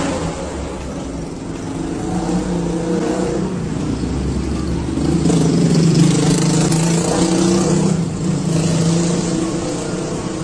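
A motor vehicle's engine running close by, getting louder about halfway through as a car passes beside the camera.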